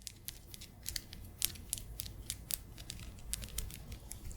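Close-miked ASMR mouth sounds: irregular wet clicks and smacks, several a second, over a low steady hum.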